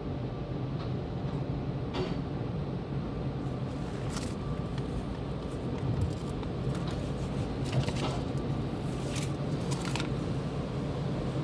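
Automatic tunnel car wash equipment running with a steady low hum, broken by several short hissing bursts over the middle and later part.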